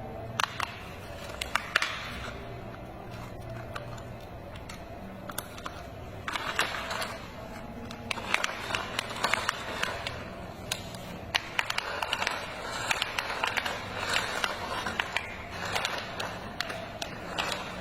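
Plastic toy truck being handled: scattered sharp clicks and short scrapes of plastic parts, coming thicker in the second half, over a low steady hum.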